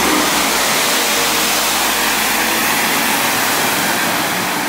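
Class 197 diesel multiple unit pulling away and passing close along the platform: a steady rush of engine and wheel noise that starts to fade near the end as the train draws away.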